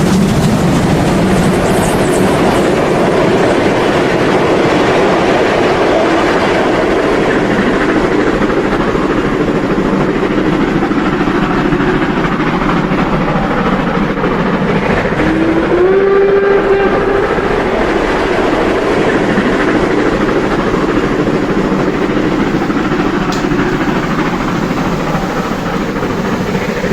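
Märklin model steam locomotives (BR 50 and BR 52) with sound decoders, running with a long train of wagons rolling over the track: a steady running and clatter sound. A short steam whistle sounds about fifteen seconds in.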